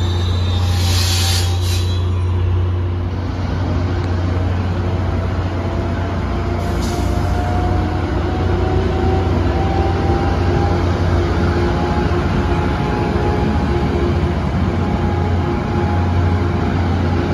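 Tri-Rail bilevel commuter train rolling past the platform: a steady, loud rumble of wheels on rail, with a faint whine that slowly rises in pitch through the middle. A brief hiss comes about a second in, and another around seven seconds.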